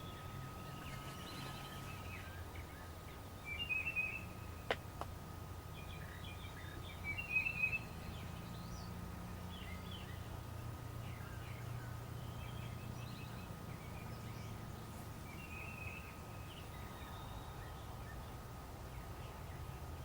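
Songbirds chirping in short, high trills a few times, over a steady low rumble, with one sharp click about five seconds in.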